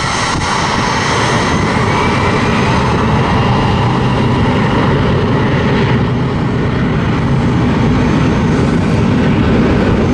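United Express CRJ regional jet's twin rear-mounted turbofans at takeoff power: loud, steady jet noise with a whine that climbs in pitch in the first second or two, slowly building.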